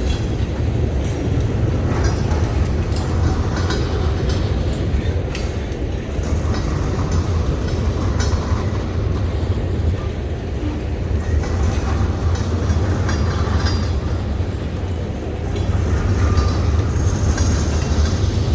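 Freight train rolling past: a steady low rumble with wheels clicking over the rail joints.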